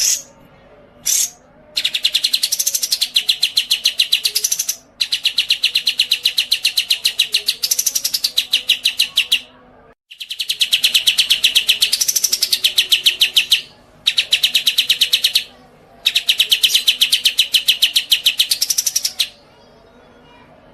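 A songbird singing long, fast trills of rapidly repeated high notes in runs of a few seconds with short breaks between them, after two brief chirps at the start.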